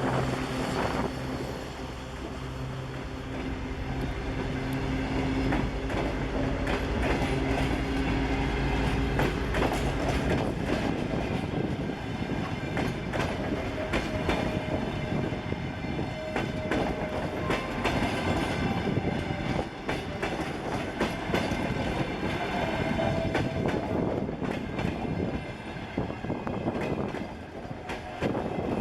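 TEP70 diesel passenger locomotive passing with a steady diesel engine hum for about the first ten seconds, then the express train's passenger coaches rolling by with continuous clickety-clack of wheels over rail joints as the train comes into the station.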